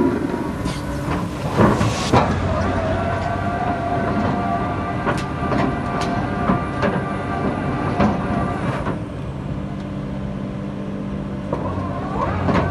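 Backhoe's engine running steadily while digging, with a series of sharp metallic clanks and knocks from the working machine.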